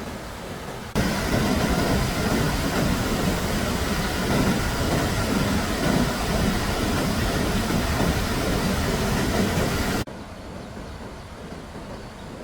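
A loud, steady rushing rumble cuts in abruptly about a second in and cuts off abruptly near ten seconds. Quieter steady noise lies on either side.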